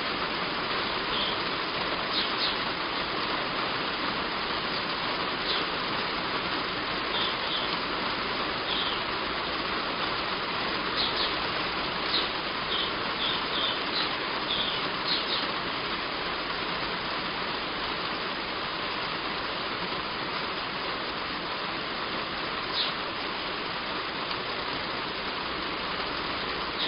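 Heavy rain falling steadily on a roof, with small birds giving short high chirps over it, most often in the first half and once more near the end.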